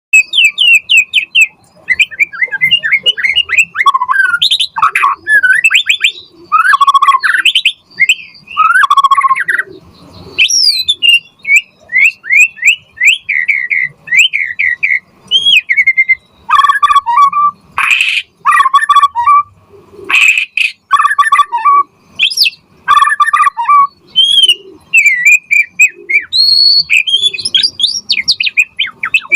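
White-rumped shama (murai batu) singing continuously: a fast, varied run of whistles, trills and harsher notes, in phrases with short pauses between them.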